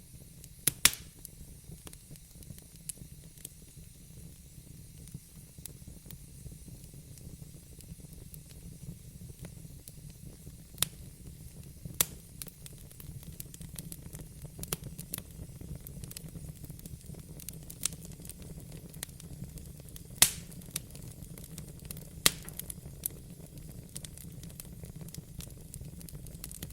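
Wood fire crackling in a fireplace: irregular sharp pops and snaps, the loudest about a second in and about twenty seconds in, over a steady low rumble.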